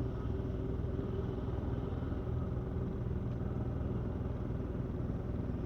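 Steady low rumble and hum of a Boeing 737-500's CFM56 engines, even throughout.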